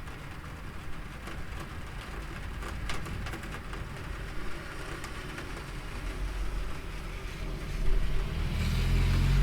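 Rain falling with scattered drips and taps, and a low rumble of thunder building in the last couple of seconds.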